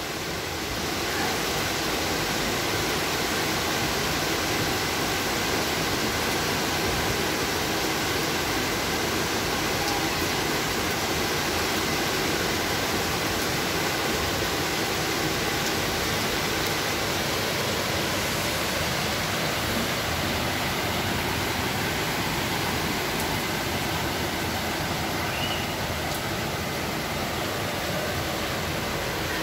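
Steady rain falling, an even hiss of water that holds constant throughout.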